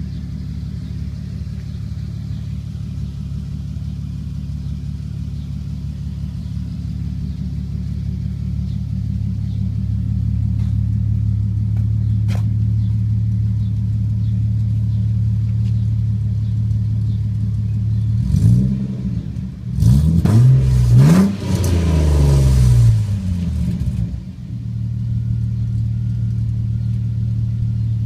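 Ford 4.0 litre inline-six idling through an exhaust with extractors, no catalytic converter and a single straight-through muffler, open at the diff. Near the end it is blipped once, then revved several times in quick succession before settling back to idle.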